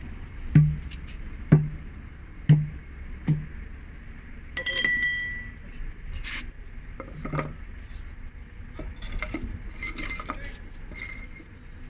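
Metal tools at work on a bus wheel during a tyre and inner-tube change. There are four heavy blows in the first few seconds, about a second apart, then a short ringing tone and lighter metallic clinks.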